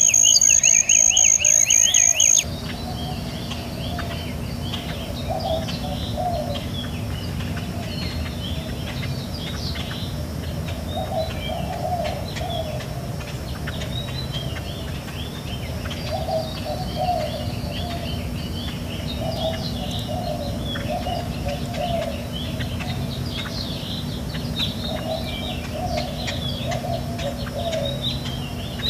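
Birds chirping and twittering, with a lower warbling call returning every few seconds, over a steady low hum. For the first two seconds a loud, steady high tone sounds with them, then cuts off and the sound drops in level.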